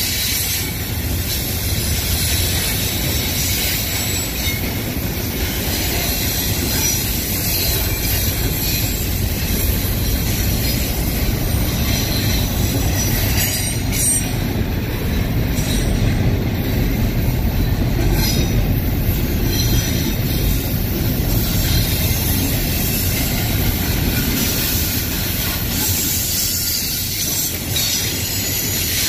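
Union Pacific double-stack intermodal freight train rolling steadily past: a continuous low rumble of steel wheels on rail with high-pitched wheel squeal over it.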